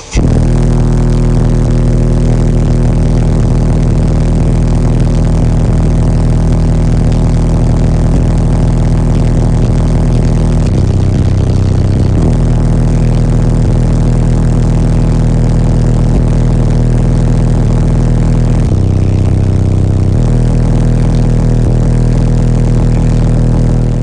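Subwoofers in a truck's car-audio system (eight 12-inch subs on 60,000 watts) playing a very loud, steady deep bass note that overloads the recording. The note shifts briefly twice, then cuts off suddenly near the end.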